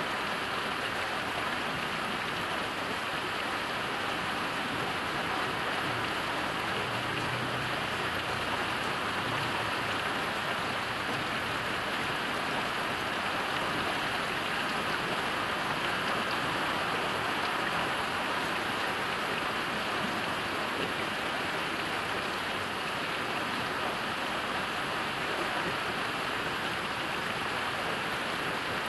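Heavy rain falling steadily, an even hiss of countless drops on the ground and surfaces.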